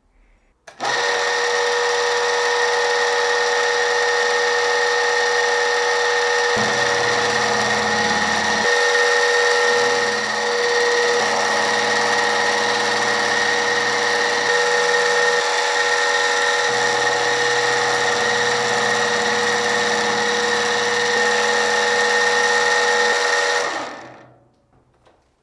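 An electric machine tool starts suddenly about a second in and runs at a steady speed with a steady whine. Its lower hum shifts a few times midway, and near the end it is switched off and winds down.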